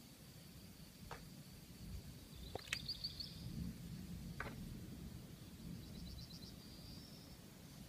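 Small birds chirping in short rapid trills, twice, with a few sharp call notes, over a low steady rumble of outdoor background noise.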